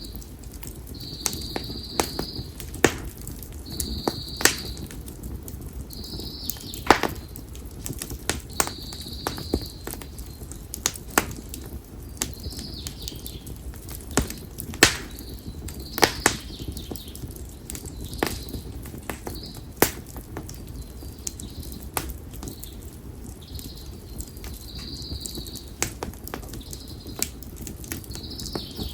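Campfire of split konara oak firewood crackling, with irregular sharp pops over a steady low burning rumble. A bird calls repeatedly, short high notes about every two seconds in the first ten seconds and again near the end.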